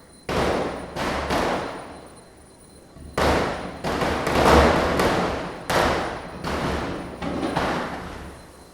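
Diwali firecrackers bursting one after another, about a dozen sharp bangs at irregular intervals, each echoing and dying away over a fraction of a second.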